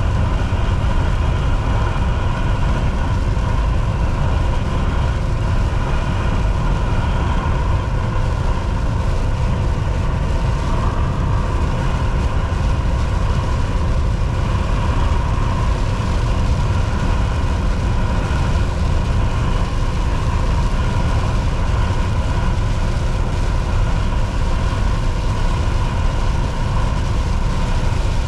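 Volvo VNL 760 semi truck cruising on the highway: steady diesel engine drone mixed with tyre and road noise.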